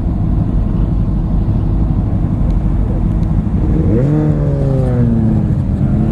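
Honda Grom single-cylinder motorcycle engine running on the ride. About four seconds in, the engine note climbs quickly, then slowly falls away.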